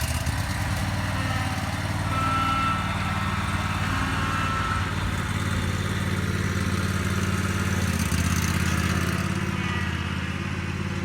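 An engine running steadily at an even speed, with a low, constant drone.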